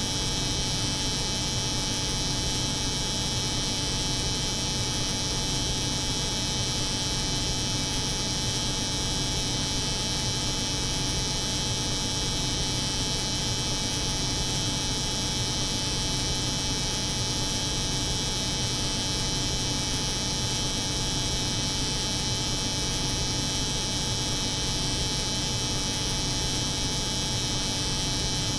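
Cold-room refrigeration drone layered with an electric hair clipper running, making one steady, unchanging hum and buzz with a bright high hiss.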